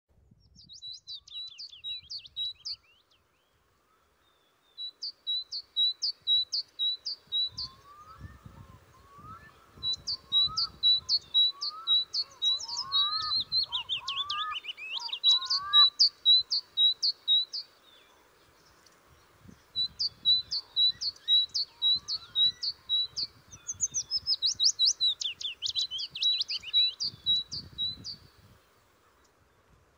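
Small songbird singing a quick repeated two-note phrase in bursts of a few seconds with short pauses. In the middle a second, lower-pitched bird joins with a run of rising notes. Now and then a low rumble of wind on the microphone.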